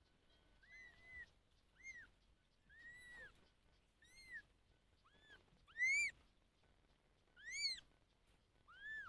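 Kitten meowing over and over: about eight high, arching calls, the loudest about two-thirds of the way through.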